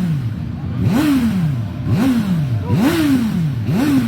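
Motorcycle engine revved in four quick throttle blips, each snapping up in pitch and then falling away as the revs drop.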